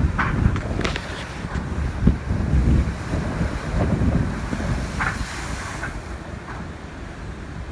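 Strong tropical-storm wind gusting across the microphone in an uneven rumble, with a few sharp crackles, over rough surf from the sea.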